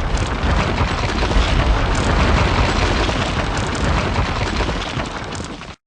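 Intro sound effect of a wall breaking apart: a loud, dense rumbling crash with heavy low end that runs several seconds and cuts off abruptly near the end.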